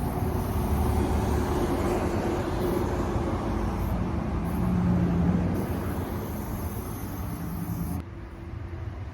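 Car running on the road: steady engine and road noise, dropping suddenly in level near the end.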